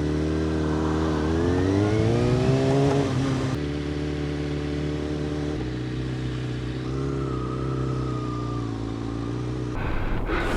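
Sportbike engine running in slow traffic, its pitch rising as it pulls away a couple of seconds in, then holding steady, with a smaller rise and fall later on.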